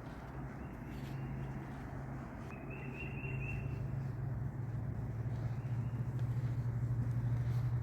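A steady low engine hum that grows louder. About three seconds in, a bird gives a brief trill of about five quick high notes.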